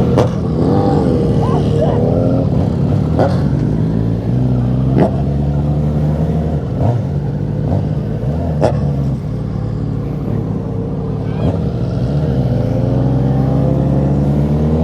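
Sport motorcycle engine running with its exhaust removed, holding a steady pitch with a few sharp clicks, then rising in pitch over the last few seconds as the bike accelerates.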